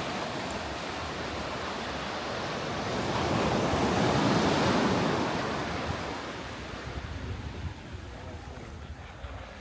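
Sea surf on a beach: a wave swells and breaks about four seconds in, then washes away. Low wind rumble on the microphone runs underneath.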